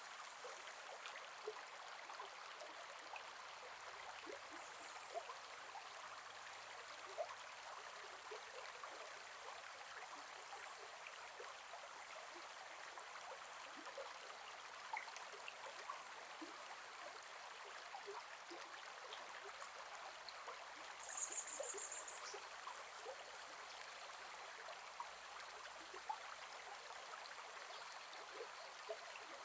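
Gentle forest river flowing steadily, a soft rush of water with many small plinks and gurgles. A brief high chirp comes about two-thirds of the way in.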